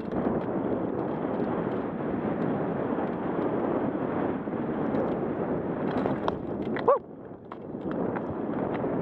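Wind rushing over an action camera's microphone and mountain bike tyres rumbling over dirt on a fast descent. About seven seconds in comes a short squeal that bends in pitch, then the noise dips for half a second and builds again.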